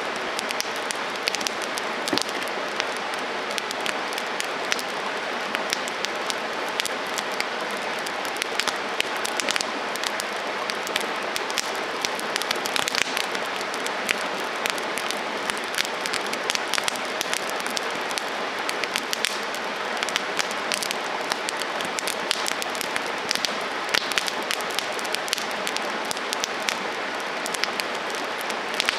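Wood campfire burning: a steady hiss with frequent sharp crackles and pops.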